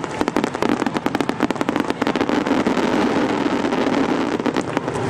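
Fireworks crackling: a dense, rapid run of many sharp pops, as from a crackle-effect shell bursting overhead.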